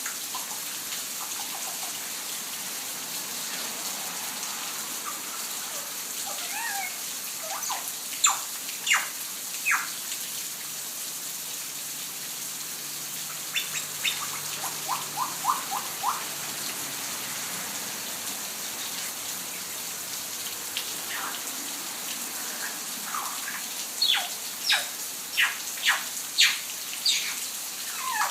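Steady hiss of falling rain with birds calling over it: a few sharp chirps, a quick run of about six short calls around the middle, and a cluster of louder, sharper calls near the end.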